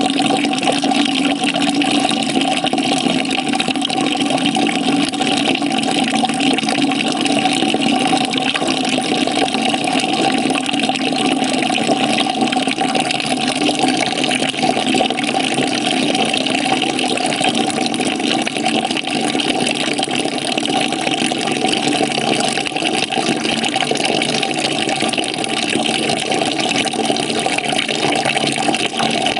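Water pouring steadily into a bucket as it fills: a continuous, even rush with a few steady hollow notes running through it.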